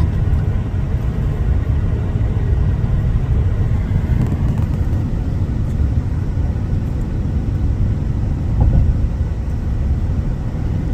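Steady low rumble of a vehicle driving on the road, starting abruptly.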